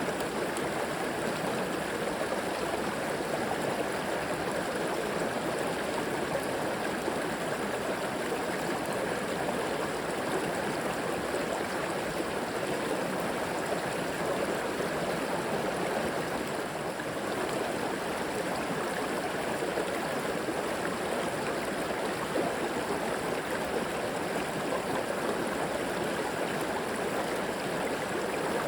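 River water flowing and gurgling steadily over rocks, an even rushing sound with no breaks.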